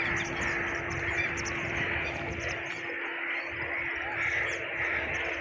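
Small birds chirping and calling over steady outdoor background noise, with a faint steady hum underneath.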